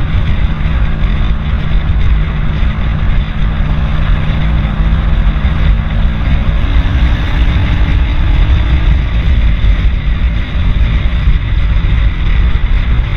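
Steady wind rush and road noise on the microphone while riding, loudest in the low end, with a faint engine hum beneath.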